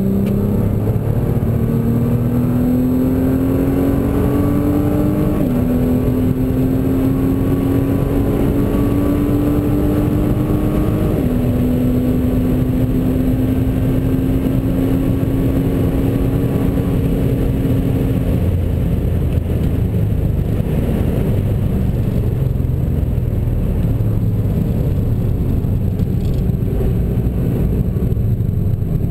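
Nissan GT-R's twin-turbo 3.8-litre V6, heard from inside the car, accelerating hard through the gears: the engine note climbs, drops at two upshifts about five and eleven seconds in and climbs again after each. After about eighteen seconds the driver lifts off and the car slows, leaving mostly road and wind noise.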